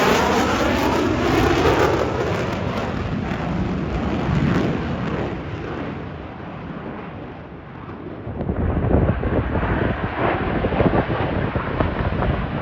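Roar of Blue Angels F/A-18 Super Hornet jets passing overhead, the sound sweeping down in pitch as they go by and fading. About eight seconds in, a crackling, rumbling jet roar builds again.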